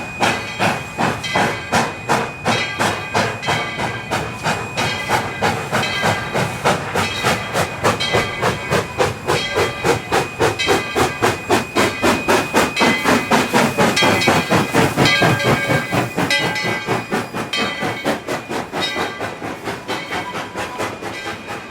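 Tweetsie Railroad #12, a narrow-gauge 4-6-0 steam locomotive, working: a steady run of exhaust chuffs with steam hiss, coming quicker around the middle. A steady high tone sounds over the first two-thirds and fades out.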